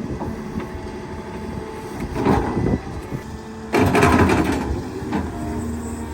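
Hydraulic excavator's diesel engine running steadily, with two louder, rougher stretches about two and four seconds in as the machine works.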